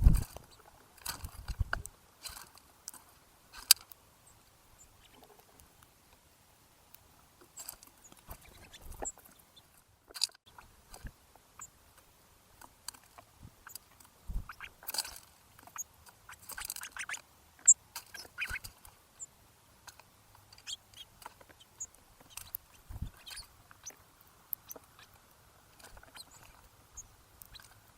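Birds pecking and cracking seed close to a feeder microphone: irregular sharp clicks, taps and crunches, with a few brief high chirps.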